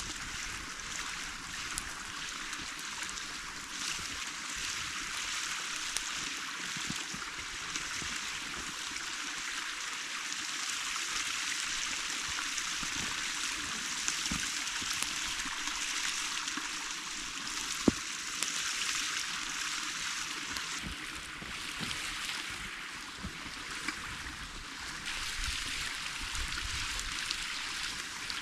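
A creek running steadily, with scattered small knocks and clicks and one sharper click about two-thirds of the way through.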